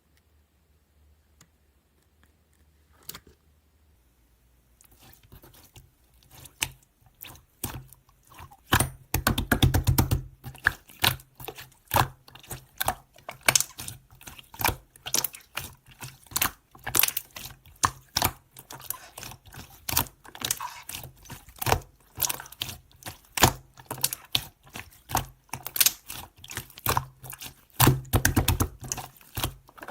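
Milk slime being squeezed and pressed by hand, making a run of sharp clicks and pops. It starts after a few quiet seconds and comes in dense flurries about a third of the way in and again near the end.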